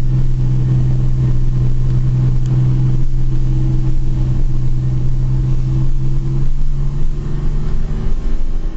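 TVR Sagaris's straight-six engine droning steadily at cruising speed, heard from inside the cabin, with road and wind noise under it. The drone eases off slightly near the end.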